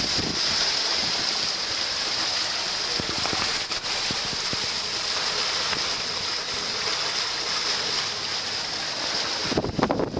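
Steady rush of water along a sailing yacht under way. Near the end, wind starts buffeting the microphone.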